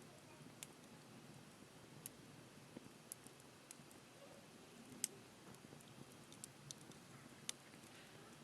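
Wood fire crackling: scattered sharp pops and snaps over a faint low hiss, the loudest pop about five seconds in.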